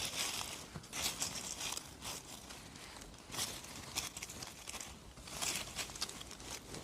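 Irregular rustling and crinkling handling noises from picking mushrooms by hand, coming in short uneven bursts.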